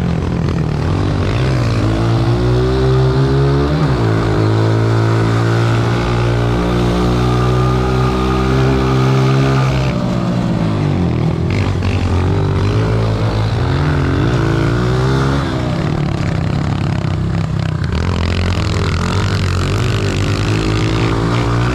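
Honda CRF125 pit bike's small four-stroke single engine revving hard as it is ridden flat out. The pitch climbs through the revs and drops off several times as the rider shifts and backs off for turns.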